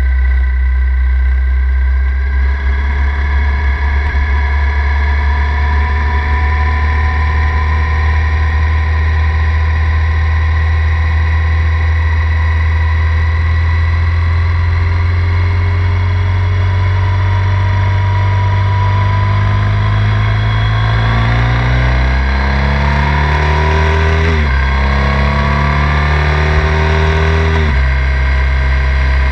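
Triumph Thruxton 900's parallel-twin engine running under the rider at a steady cruise, pitch creeping up, then accelerating hard in the last third. There are two upshifts, each a sudden drop in pitch before the engine climbs again.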